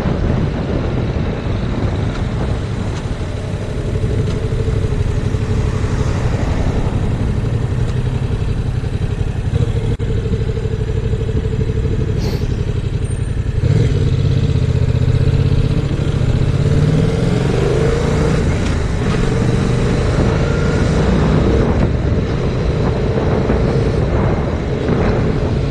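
Heavy wind noise buffeting a GoPro microphone, with the 2019 Yamaha MT-07's parallel-twin engine running underneath at road speed. About halfway through the sound gets louder and the engine note rises and falls.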